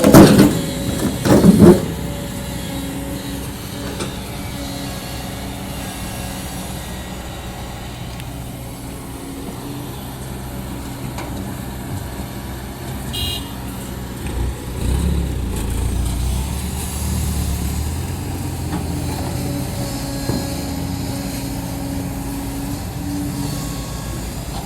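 Diesel engine of a Kobelco SK200-10 hydraulic excavator running steadily while it works. About halfway through, a deeper, louder rumble comes in for a few seconds as the engine takes on more load. A couple of loud short sounds come just at the start.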